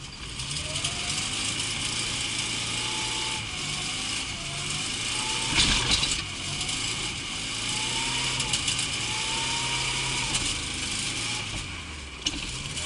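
Lada Zhiguli's eight-valve engine revving up and down over and over, with a sudden loud knock about six seconds in.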